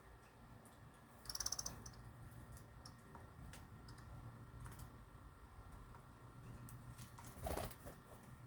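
Faint bird sounds: a short, rapidly pulsing chirp about a second in, scattered light clicks, and a brief louder burst of noise near the end.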